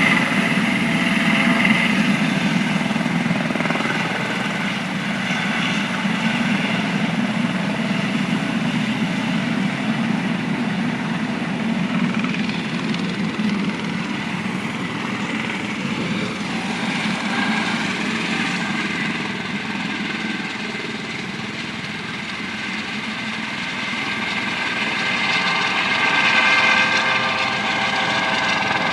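Helicopter running steadily at a heliport pad, its engine and rotor noise with a held whine over it; the sound eases off past the middle and swells again near the end.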